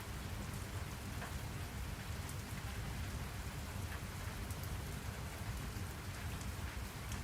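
Steady rain falling, with scattered drops ticking on a surface over a low rumble.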